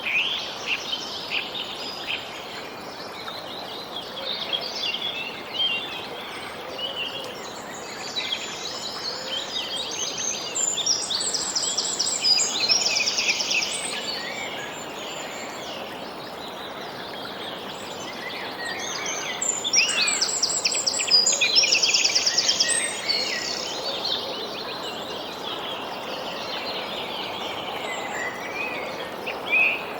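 Several songbirds chirping and calling over a steady background noise, with two louder runs of quick repeated trilling notes, about a third of the way in and again past the two-thirds mark.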